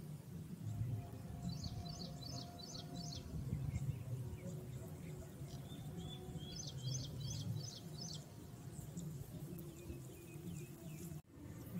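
A bird calling in two quick runs of about five sharp, high notes each, a few seconds apart, over a steady low outdoor rumble.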